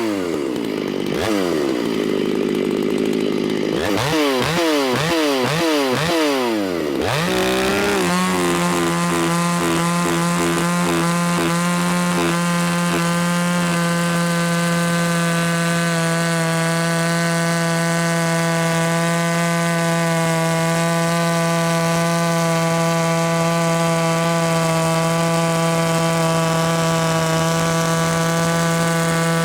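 Ported Shindaiwa 757 two-stroke chainsaw revved up and down several times, then held at full throttle in one long, steady cut through wood from about seven seconds in. The chain is dull: it throws powder rather than chips and has to be pushed to get through the cut.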